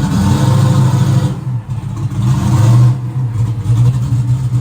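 Race car V8 engine running loud at low speed, its level rising and falling unevenly, with a brief dip about a second and a half in.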